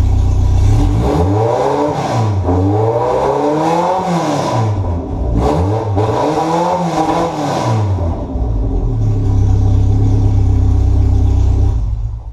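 Toyota AE86 Corolla engine running with the exhaust removed, open from the header. It idles loudly, is blipped up and down in a string of quick revs over the middle several seconds, settles back to idle, and cuts off near the end.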